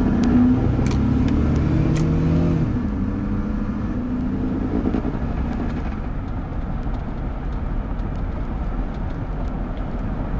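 Car driving noise heard from inside the cabin: an engine hum that drops in pitch over the first few seconds, then settles into steady road and tyre noise with scattered faint ticks.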